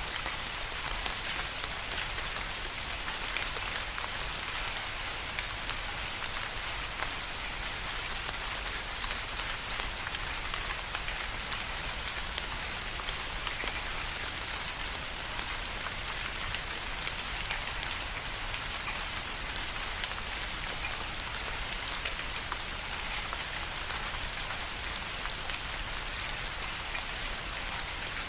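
Steady rain falling, an even hiss dotted with the clicks of individual drops hitting a surface.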